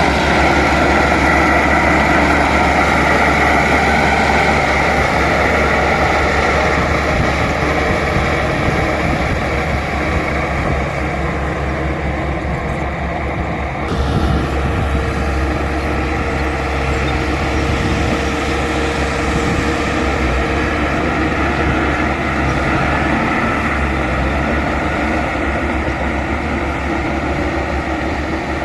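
Bulldozer's diesel engine running steadily. About halfway through, the sound shifts suddenly and a faint steady whine joins in.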